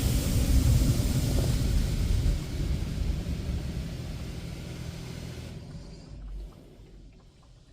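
Automatic car wash machinery running: a loud rushing noise with a low rumble that fades over several seconds. The rushing cuts off about five and a half seconds in, leaving a brief low thump and then quiet.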